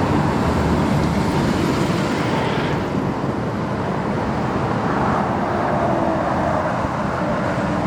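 Steady freeway traffic noise, with vehicles passing by that swell and fade.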